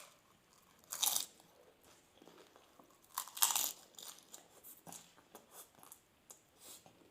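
Crisp fuchka (pani puri) shells filled with yogurt being bitten and chewed: two louder crunches, about one second in and around three and a half seconds in, with softer chewing sounds between.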